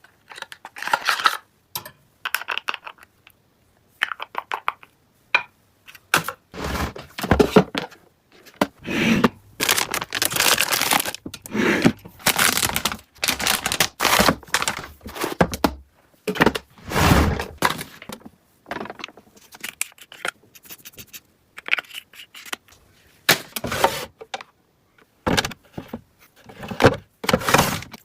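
Packaging and objects being handled by hand: irregular bursts of rustling, crinkling and scraping, with a few dull thunks.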